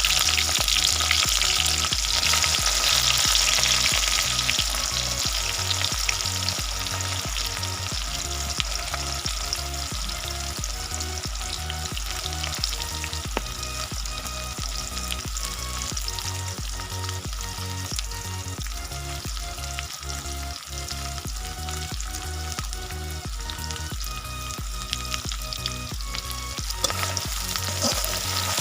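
Sliced onions frying in hot soybean oil in a karahi, sizzling steadily as they brown into beresta; the sizzle is loudest in the first few seconds and then settles.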